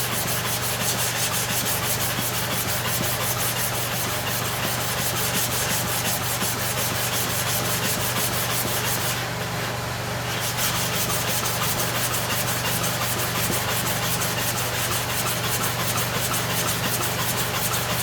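Metal clipper blade in a holder rubbing steadily on a sharpening stone coated with an oil and abrasive-powder paste, a continuous gritty scraping that eases briefly about halfway through.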